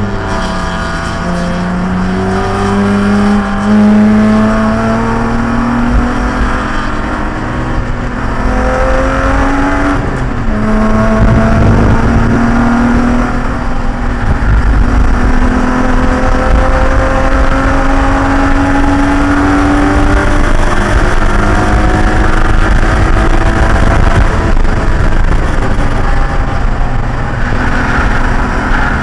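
Race car engine under load on track, its pitch climbing slowly for several seconds and then dropping sharply at gear changes, over a steady low rumble.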